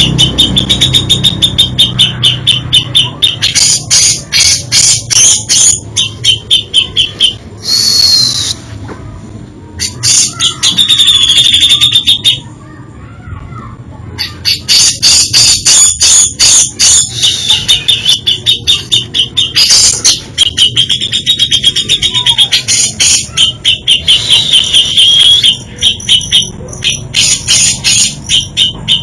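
Cucak jenggot bulbul singing a long, varied song: rapid runs of sharp chattering notes mixed with warbled phrases, broken by two short pauses.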